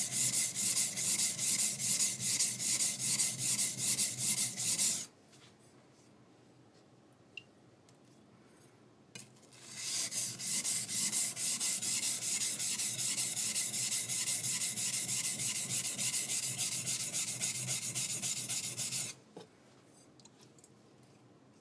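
High-speed steel skiving knife blade rubbed back and forth on a wet whetstone, about two gritty scraping strokes a second, grinding its bevel flat. The strokes stop about 5 s in, resume after a pause of about 5 s, and stop again shortly before the end.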